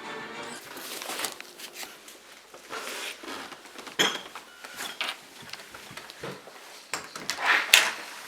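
Irregular clicks, knocks and rustling of objects being handled close by, with a louder clatter about four seconds in and a longer rustle near the end.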